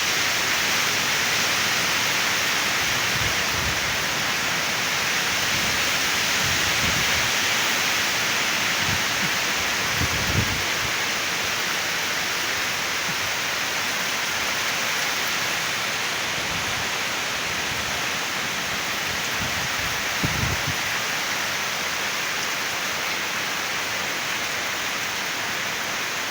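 Heavy rain falling steadily in a strong-wind rainstorm, an even hiss, with a few brief low rumbles, about ten seconds in and again near twenty seconds.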